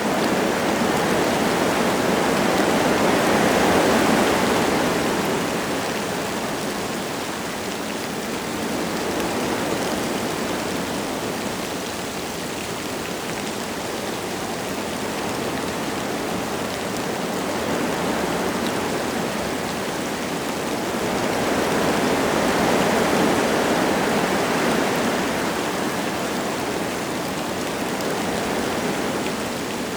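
Wind gusting through forest trees with light rain falling, a steady rushing that swells twice, strongest a few seconds in and again past the middle.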